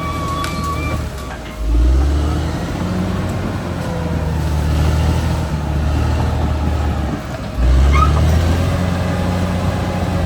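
Caterpillar D6R XL bulldozer's diesel engine running under load. It revs up sharply twice, about one and a half seconds in and again near seven and a half seconds, each time after a brief dip. A thin high whine fades out about a second in.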